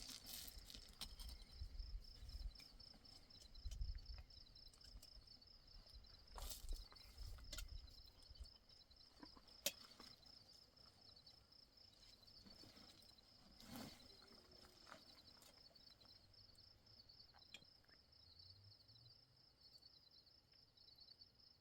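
Crickets chirping in a steady, high pulsing trill, faint throughout. A few sharp clicks and knocks are scattered over it, and a low rumble comes and goes in the first eight seconds.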